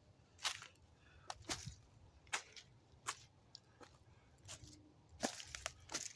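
Footsteps walking through mud: a steady series of short steps, about one every three-quarters of a second.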